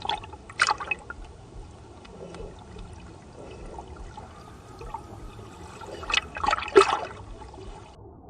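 Water running and trickling, with loud splashes about half a second in and again in a cluster about six to seven seconds in.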